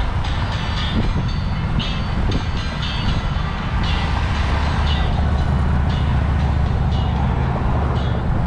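Wind rumbling across the GoPro's microphone while cycling, with short high-pitched tones coming and going.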